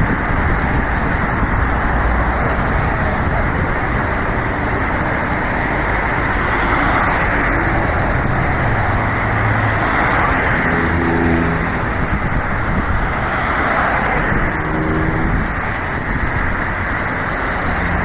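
Car driving in city traffic: a steady rush of road and tyre noise, with an engine's note coming through briefly twice partway through.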